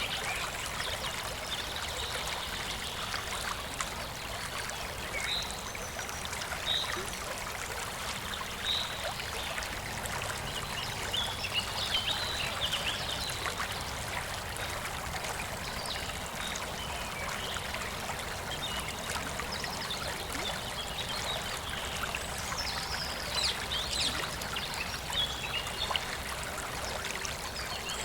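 A stream flowing steadily over stones, with birds giving short high chirps now and then, in clusters near the middle and toward the end.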